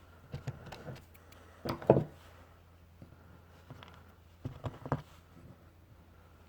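Scattered clicks and light knocks of small metal parts being handled as a generator carburetor's fuel bowl is fitted back on, in three short clusters.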